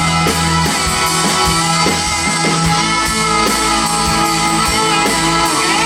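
Live country band playing an instrumental passage between sung lines: guitars over a steady bass line and drum kit.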